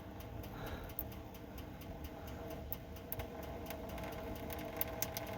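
Engine oil from a 1991 Chevy S10's drain plug hole trickling and dripping into a catch pan, heard as faint irregular ticks over a low steady hum. The flow is already slowing, which the owner takes for too little oil coming out.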